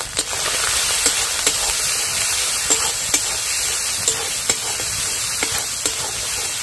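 Onion-tomato masala sizzling in oil in a steel kadai while it is stirred, the steel spatula scraping and tapping the pan in repeated sharp clicks over a steady hiss.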